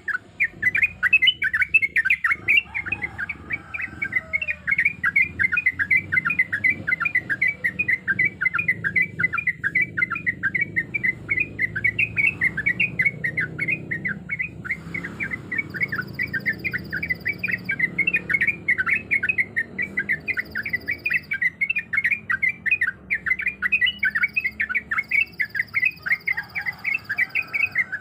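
Yellow-vented bulbul singing a long, rapid, unbroken run of short chattering notes.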